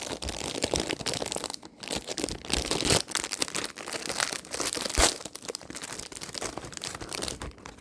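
Candy packaging being crinkled and torn open by hand, a continuous rustling with sharper snaps about three and five seconds in.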